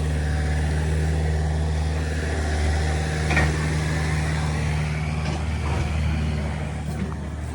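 Heavy earth-moving machine's engine running steadily, with a sharp knock about three seconds in and a couple of fainter knocks later.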